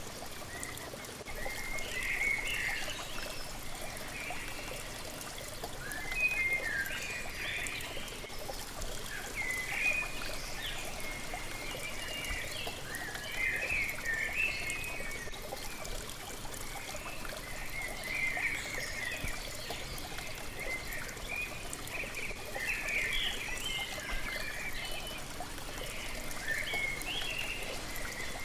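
Falling water from a waterfall, a steady splashing trickle, with small birds singing short chirping phrases every second or two.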